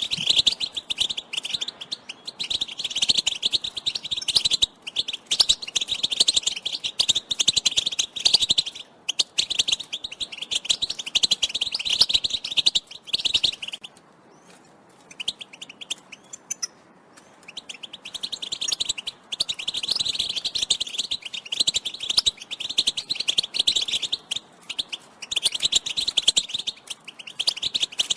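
European goldfinch twittering: a rapid chatter of short, high chirps, broken by a pause of about three seconds midway.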